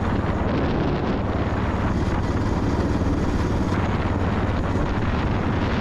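Motorcycle riding at road speed: steady engine drone mixed with wind rush over the microphone.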